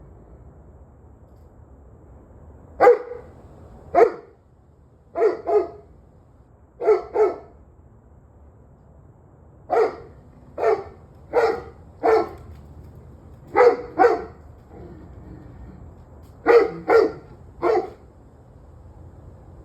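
A dog barking repeatedly: about fifteen sharp barks, some single and some in quick doubles or triples, with pauses of one to two seconds between groups.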